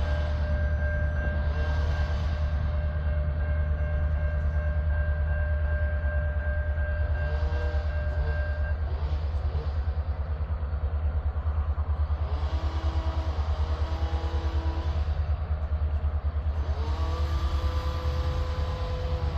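Freight train rolling past a level crossing with a steady, heavy low rumble. A steady high whine stops about nine seconds in, and short wavering squeals come later.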